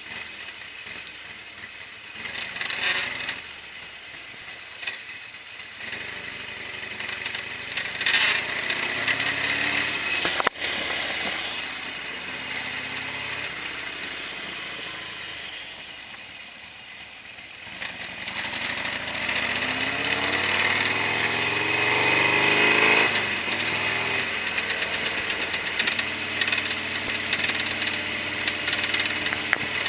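Harley-Davidson Sportster XL1200R's air-cooled V-twin engine running on the move. About two-thirds through it rises in pitch for several seconds, then drops back.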